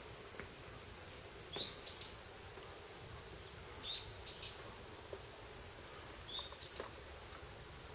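A bird calling three times at even spacing, each call a short high note followed by a quick note that arches up and back down. Faint steady background noise runs underneath.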